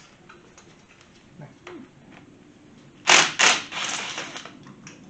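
Loose metal engine parts clattering on a workbench: two sharp clanks about three seconds in, followed by about a second of rattling, with small handling clicks before.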